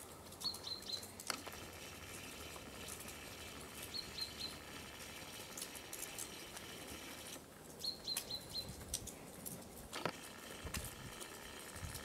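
A small bird calling a quick run of three or four short, high chirps, three times about four seconds apart, over quiet outdoor ambience with scattered light ticks and clicks.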